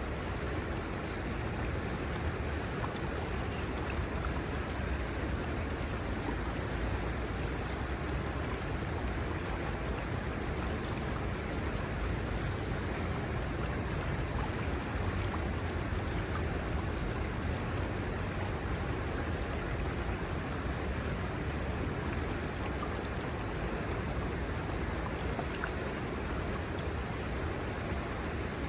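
Kamo River water running over its shallows in a steady, even rush, with a low rumble underneath.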